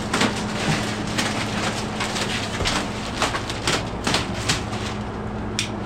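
Self-serve car wash pressure wand spraying water against a vehicle: a continuous hiss with uneven splashes, over a steady low hum from the wash equipment.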